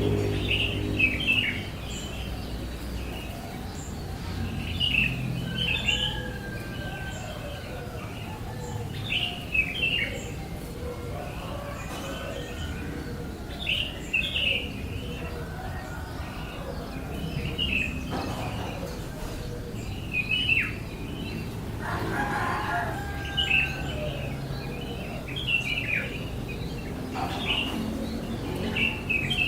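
Small bird chirping: short, sharp, downward-sliding chirps, often in quick pairs, repeated every one to three seconds over a low steady rumble.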